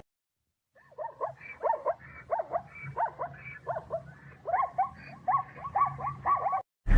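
A dog barking in a quick run of about a dozen short barks, roughly two a second, starting about a second in and cutting off suddenly near the end.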